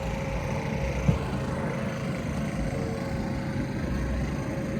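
Low, steady rumble of an idling vehicle engine, with a single short knock about a second in.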